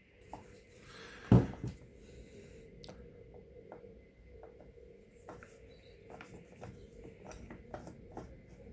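Handling noise from an electric hand planer with its motor off, with one sharp knock about a second in followed by scattered light clicks and taps as its loose depth-adjustment front shoe is worked by hand.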